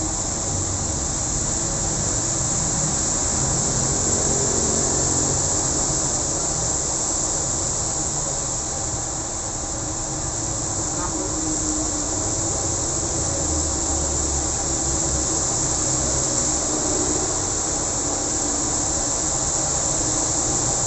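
Steady hiss of rain pouring down, with the low rumble of road traffic driving through it, swelling and easing as vehicles pass.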